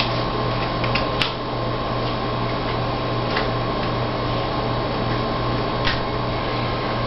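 Steady electrical hum and hiss with a few faint taps, typical of trading cards being laid down on a table.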